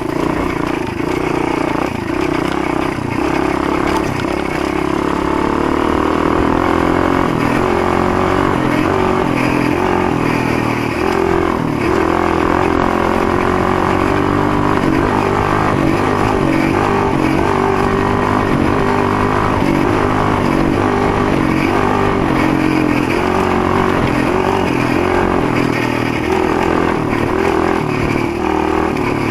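Motoland GF125 pit bike's single-cylinder four-stroke engine running under way, its pitch rising and falling as the rider works the throttle.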